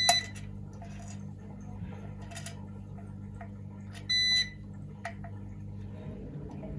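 A multimeter's continuity buzzer beeping as the test probes touch the power supply's circuit board, which is being checked for an open diode. A beep cuts off just after the start, a short beep sounds about four seconds in, and another begins at the very end, with small probe clicks between them over a steady low hum.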